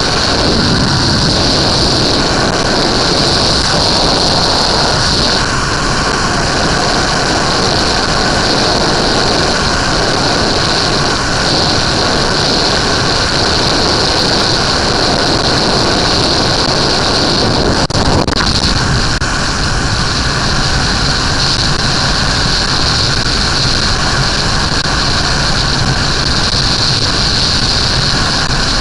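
Suzuki GSX-R 1100's inline-four engine running steadily while the motorcycle is ridden, mixed with loud, continuous wind rush.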